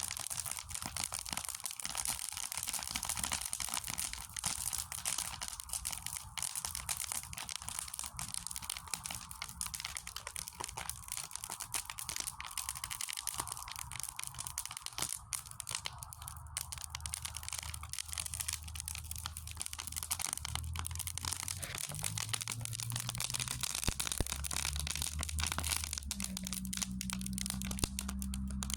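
Wood fire crackling in a fire pit: dense, irregular pops and snaps over a steady hiss. A low rumble comes in about two-thirds of the way through.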